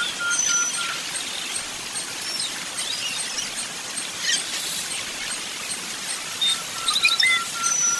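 Several birds calling at once: one repeats a quick run of identical notes, about four a second, at the start and again near the end, while a high note ticks steadily about three times a second and other chirps and short trills come and go.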